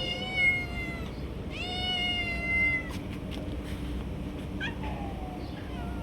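A cat meowing: two long, drawn-out meows, then fainter, shorter cries near the end.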